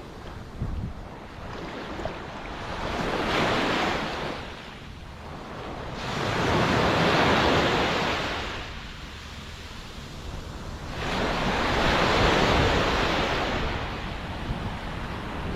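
Ocean surf: waves breaking and washing in, swelling and ebbing three times, about every four to five seconds.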